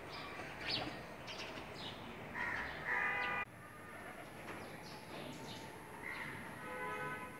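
Birds calling outdoors over faint background noise: short calls about two and a half to three seconds in, and again near the end.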